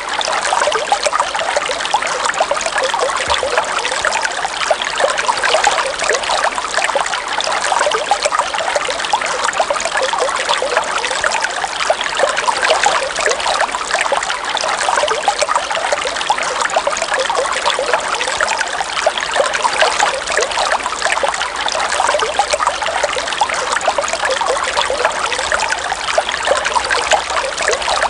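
River water flowing and trickling in a steady stream, a constant dense babble with no let-up.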